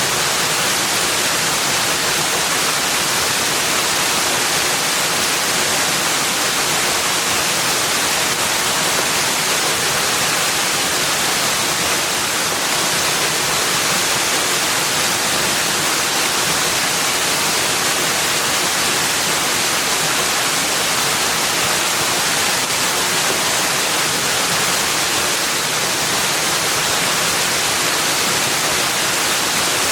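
Steady, unbroken rush of running water, even throughout with no separate events.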